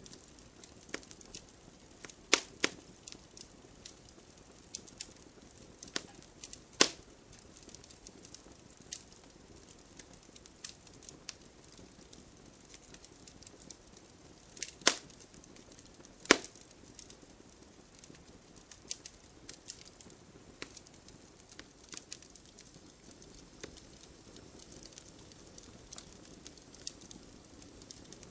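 Wood fire crackling in a fireplace: scattered small pops and snaps over a soft hiss, with five louder pops, a quick pair near the start, one a few seconds later, and two more past the middle.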